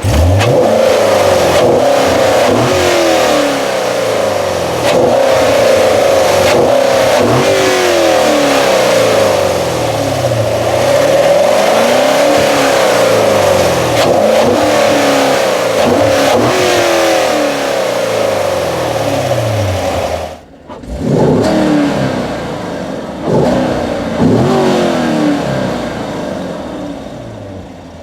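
Corvette Stingray's 6.2-litre LT1 V8 accelerating hard through the gears, its pitch climbing and dropping back at each upshift. About two-thirds of the way through the sound falls away abruptly, followed by a few short bursts of revs, and it fades near the end.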